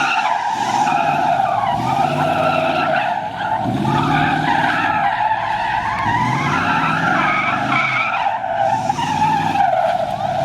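Tyres squealing without a break as a vehicle does donuts, its engine revving up and down in repeated surges about every two seconds.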